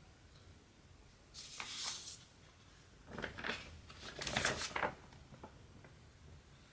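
Three short swishing rustles of cotton thread and cross-stitch fabric being handled, with stitching going on.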